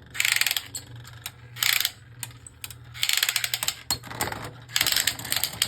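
Plastic Beyblade launcher being wound by its crank: rapid ratcheting clicks in four short bursts.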